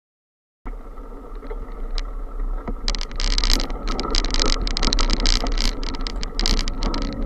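Bicycle riding noise as picked up by a camera on the bike: wind rumbling on the microphone, with tyre and frame rattle that grows denser and louder about three seconds in. The sound cuts in abruptly just after the start.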